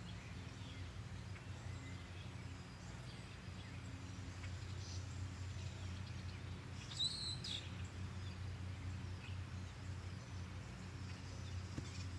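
Faint outdoor background with a steady low rumble; a small bird chirps once, briefly, about seven seconds in.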